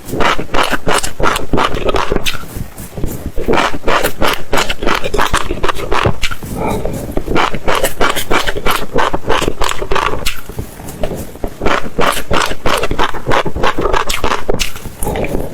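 Close-miked chewing: seeds crunching and cracking between the teeth in quick, crisp crunches about four or five a second, pausing briefly three times.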